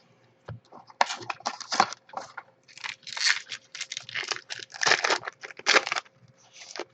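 Trading cards and foil pack wrappers being handled: a quick, irregular run of short rustling, sliding and crinkling sounds.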